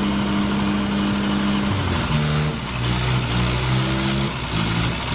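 Mahindra tractors' diesel engines running. The engine note is steady, then from about two seconds in it shifts up and down in pitch in steps as the throttle changes.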